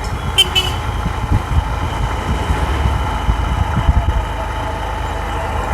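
Honda Livo BS6's 110 cc single-cylinder engine running steadily on the move, under a low wind rumble on the rider's microphone. A brief high beep sounds about half a second in.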